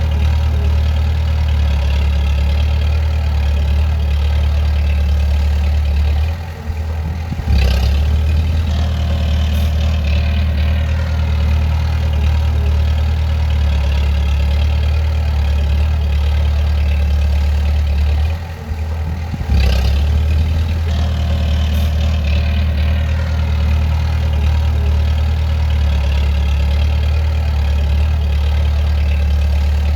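Bulldozer's diesel engine running steadily. The engine note dips briefly twice, about six seconds in and again near nineteen seconds, and each dip ends in a sharp knock as it picks back up.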